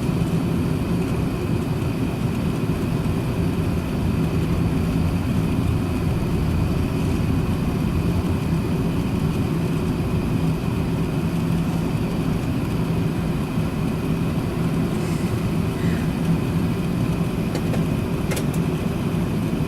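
Steady cabin noise inside an Airbus A380-800 on the ground before takeoff: a low rumble with a steady hum and a faint high whine. A sharp click about eighteen seconds in.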